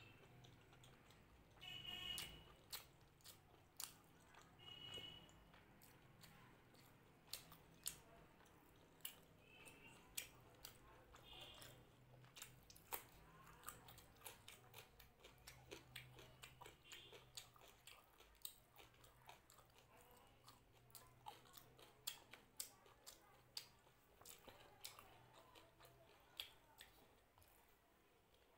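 Close-miked eating sounds: quiet chewing of luchi and mutton curry, with many irregular wet mouth clicks and smacks.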